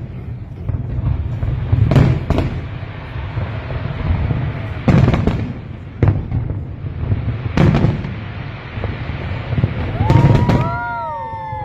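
Aerial fireworks bursting: loud booms every two to three seconds, some in quick pairs, over a steady low rumble, with a few falling whistle-like tones near the end.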